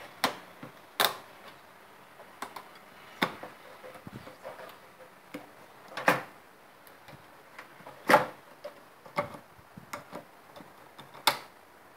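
Irregular sharp clicks and knocks, seven or eight of them a second or two apart, as fluorescent tubes are pushed and turned into their lamp holders in a light fitting.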